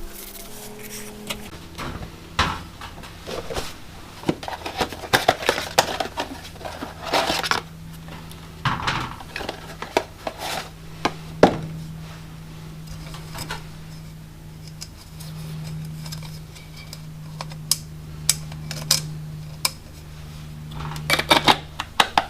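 Irregular light metallic clinks, knocks and clatter of car parts and tools being handled, while oil filter parts are cleaned and readied for refitting. A steady low hum runs underneath.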